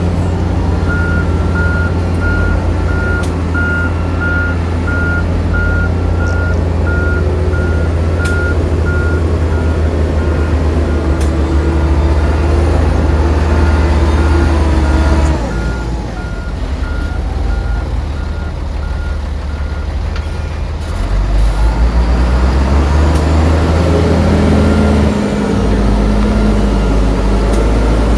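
Heavy diesel earthmoving machinery running under load, with a reversing alarm beeping evenly for most of the first twenty seconds. The engine sound drops off about halfway through, then picks up again a few seconds later.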